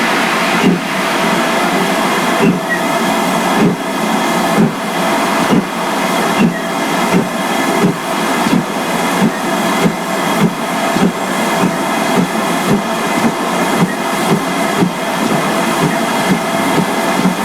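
GWR 4200-class 2-8-0 tank steam locomotive pulling away, its exhaust beats over a steady hiss. The beats quicken from about one a second to about two a second as the train gathers speed.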